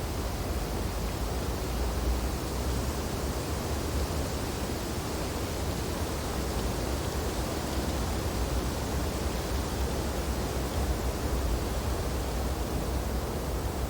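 Steady wind blowing through tree branches: an even hiss with a low rumble underneath, without distinct gusts.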